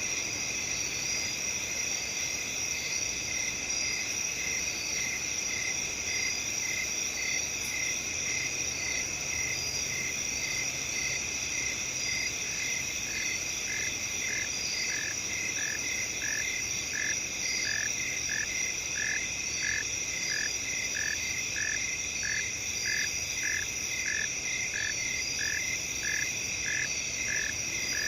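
Night chorus of crickets chirping continuously at a high pitch, with a second caller repeating a short lower note about twice a second that grows louder from about halfway through.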